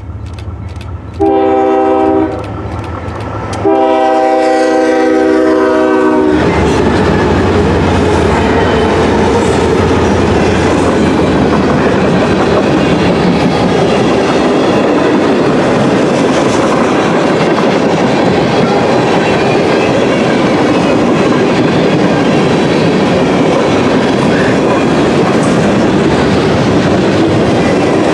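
A CSX freight train's locomotive horn sounds a short blast and then a longer one as the lead locomotives arrive, followed by the steady rumble and wheel clatter of a long string of tank cars and hoppers rolling past close by.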